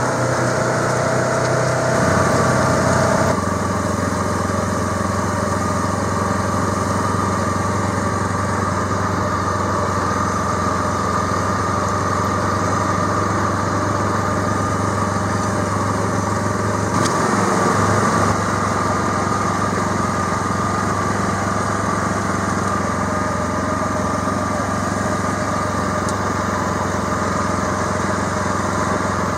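Small engine on a field-spraying rig running steadily with a constant drone and a thin whine over it. Its pitch shifts slightly a couple of seconds in and again about seventeen seconds in.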